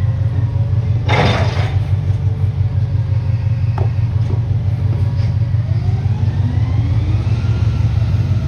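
Garbage truck engine running with a heavy low rumble, a short burst of hiss about a second in, then the engine note rising as the truck accelerates from about six seconds.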